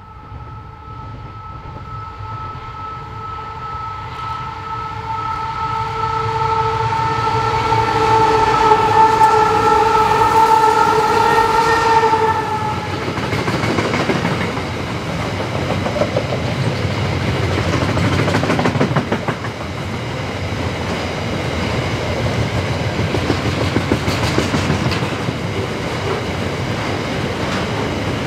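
Diesel train's multi-tone horn sounding one long held blast that grows louder as the train approaches, then cutting off about twelve seconds in. The train then rolls past with engine rumble and wheels clattering on the rails.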